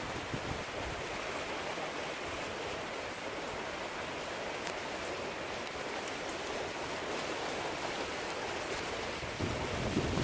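Steady rain falling during a thunderstorm, an even hiss. Near the end, wind gusts start buffeting the microphone with a low rumble.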